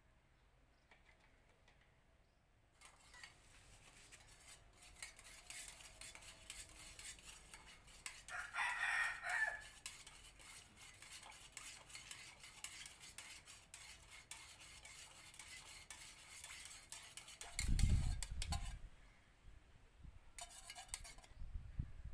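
Small clicking and scraping of a tool stirring and knocking in a container, typical of mixing paint or primer by hand. A rooster crows once about the middle, and a couple of dull thumps come near the end.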